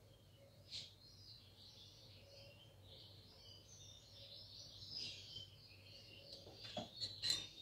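Small birds chirping faintly and continuously over a low room hum. A couple of light metal spoon clinks come near the end.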